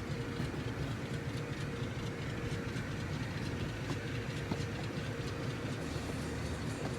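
Steady mechanical rumble with a faint steady hum over it, unchanging throughout.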